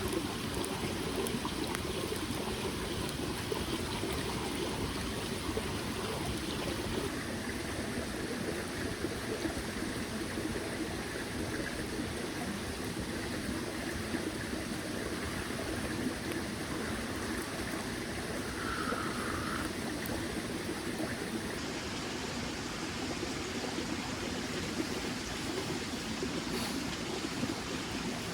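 Small mountain stream flowing over rocks in a steady, continuous trickle, with one brief faint chirp about two-thirds of the way through.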